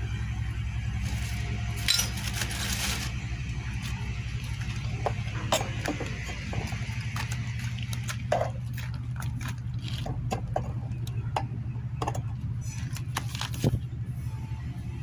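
Metal tools and engine parts clinking and knocking now and then during a motorcycle engine teardown, over a steady low hum.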